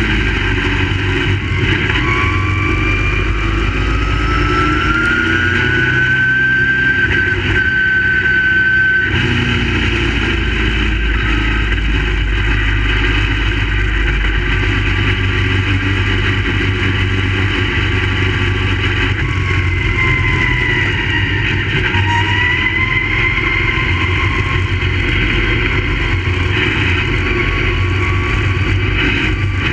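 V8 engines of crate late model race cars running hard on a dirt oval, engine pitch climbing and dropping as the cars accelerate down the straights and lift for the turns.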